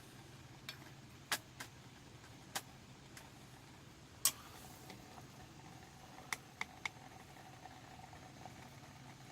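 Scattered sharp clicks and taps at uneven intervals, the loudest about four seconds in, over a faint steady hum.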